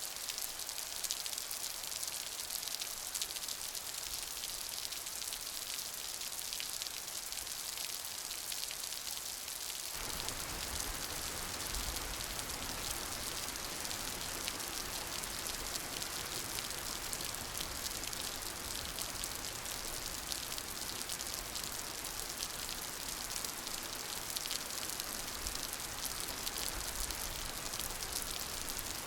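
Steady rain falling, a dense even patter of drops. About ten seconds in the sound turns suddenly fuller and deeper and stays that way.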